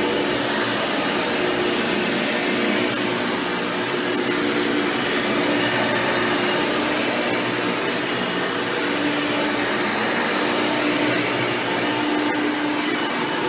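Hoover Power Drive Supreme upright vacuum cleaner running steadily while cleaning carpet, its motor with an upgraded 20-blade impeller fan giving a constant rush of air with a low hum that comes and goes.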